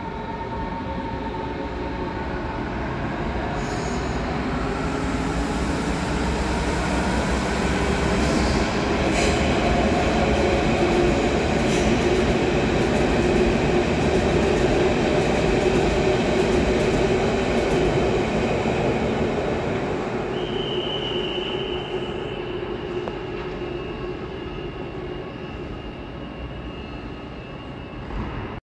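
Berlin S-Bahn electric train running past on the station tracks. Its rumble grows over the first several seconds and eases off after about eighteen. A high wheel squeal starts about twenty seconds in and holds until near the end.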